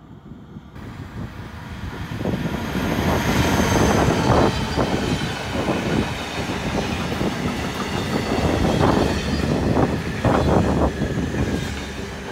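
Electric freight train of tank wagons and hopper wagons passing close by, growing louder over the first couple of seconds as it approaches, then a continuous rolling rumble with wheels clattering and knocking as the wagons go past, easing off near the end.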